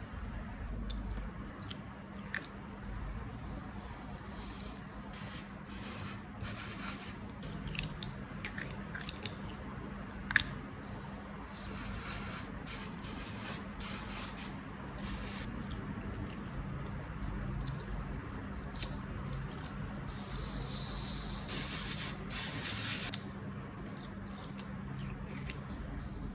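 Close-up sand-art crafting sounds: repeated hissing bursts of coloured sand being sprinkled, poured and rubbed over sticker paper, the longest burst a few seconds before the end, with a sharp click about ten seconds in over a faint steady low hum.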